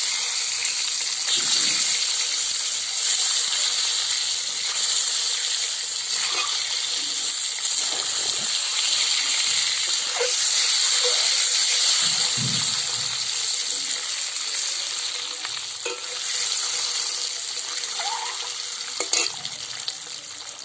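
Eggs frying in hot oil, a steady loud sizzle, with a few light clicks from stirring. The sizzle eases a little near the end.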